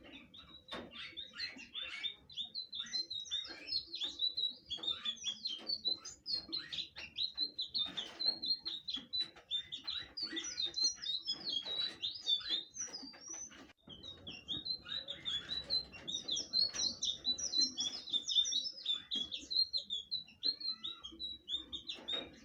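Blue flycatcher (sikatan biru) singing a fast, unbroken string of chirps, slurred whistles and trills, with a brief pause a little past halfway.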